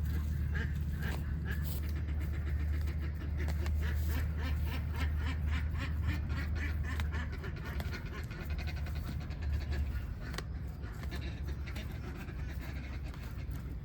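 A flock of domestic ducks quacking as a dense, overlapping chorus that thins out about halfway through, over a steady low hum.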